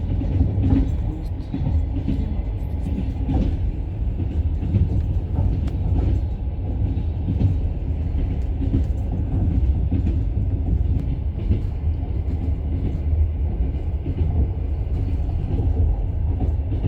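Steady low rumble of a moving vehicle heard from inside, with faint scattered rattles and clicks over it.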